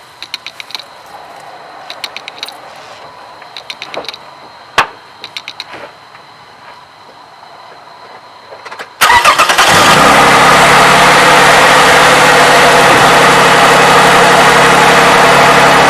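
Light clicks and taps, then about nine seconds in the 2007 Toyota 3.5L V6 starts cold and settles into a steady idle. There is no valve-timing clack: the owner credits the graphene additive for the cured knocking.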